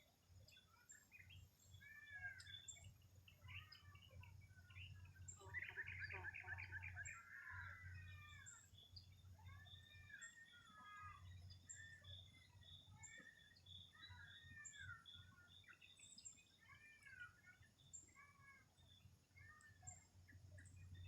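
Faint morning chorus of several birds: short whistled notes that rise and fall, repeated high chips, and a fast trill about six seconds in.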